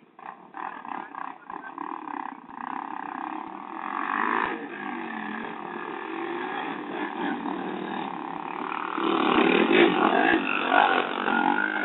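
Motorcycle engine running and revving, growing louder and loudest from about nine to eleven seconds in.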